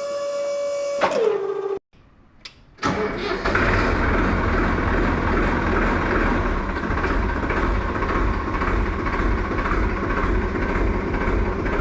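A steady pitched whine drops in pitch and stops about two seconds in. After a short pause and a couple of clicks, an engine starts and runs steadily, loud and rumbling.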